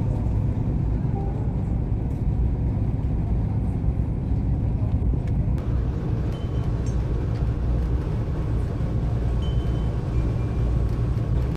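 Steady low rumbling noise with a lighter hiss over it, unbroken throughout.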